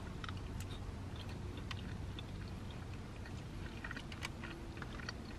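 Close-up chewing of a mouthful of Cajun chicken pasta: soft, wet mouth clicks and smacks scattered throughout, over a low steady hum.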